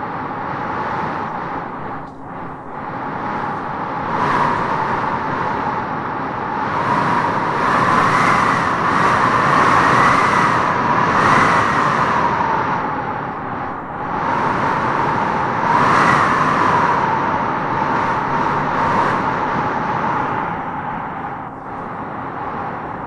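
Strong wind blowing in gusts that swell and ease over several seconds, with a howling whistle that rises and falls in the strongest gusts.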